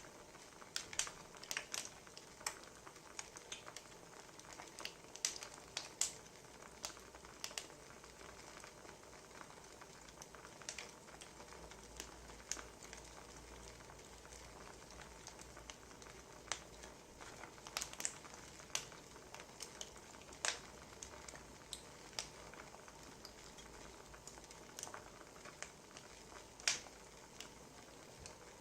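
Burning firewood crackling, with irregular sharp pops and snaps scattered over a soft steady hiss.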